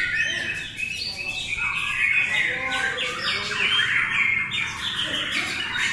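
Several caged white-rumped shamas singing at once: a dense tangle of overlapping quick whistles and chirps with no pause.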